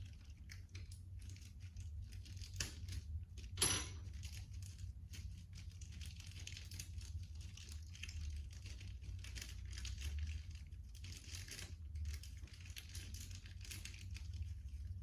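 Irregular rustling and small clicks of hands handling parts or packaging, with one sharp metallic clink about three and a half seconds in, over a steady low hum.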